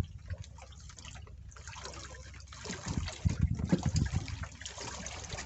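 Water sloshing and splashing, with a cluster of louder low knocks in the middle.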